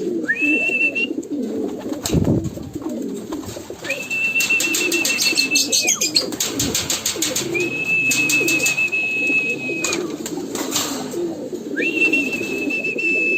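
Racing pigeons cooing in a loft while a long, steady, high whistle sounds four times, about two seconds each and about four seconds apart, the keeper's feeding call to bring the birds in. Rapid clicking comes and goes between the whistles.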